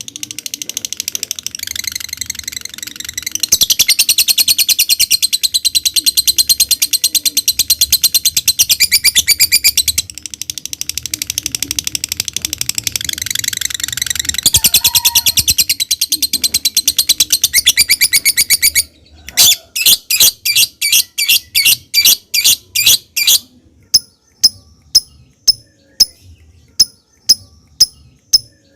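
Lovebird singing a long, very fast, high-pitched rattling trill (the 'ngekek'), which breaks off about two-thirds of the way in into separate sharp chirps that slow to roughly one a second, the 'ngetik' ticking.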